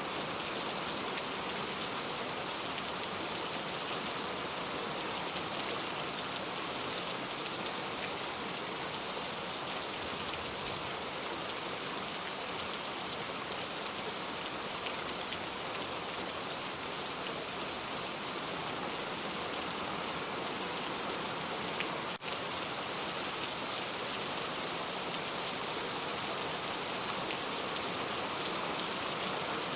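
Steady rain falling, an even hiss of many fine drops, with a momentary dropout about two-thirds of the way through.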